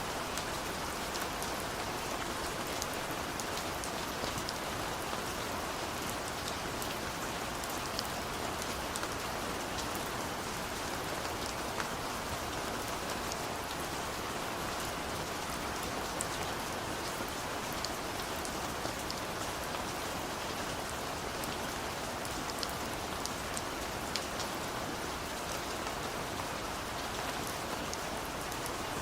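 Steady rain falling, a constant hiss with many small individual drops pattering on surfaces.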